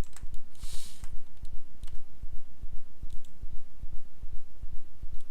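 Scattered computer mouse and keyboard clicks over a steady low pulsing hum at about three beats a second.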